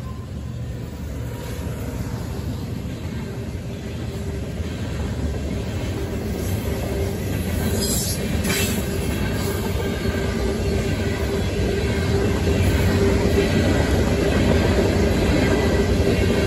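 Union Pacific freight train rolling through a grade crossing: the trailing locomotives, then covered hopper cars rumbling and clattering past, getting louder. A steady wheel squeal joins in about six seconds in, with a short metallic clank around the middle.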